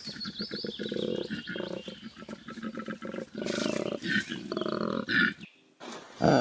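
Koala bellowing: a fast run of rasping, snore-like pulses, then a few louder grunts, stopping about a second before the end.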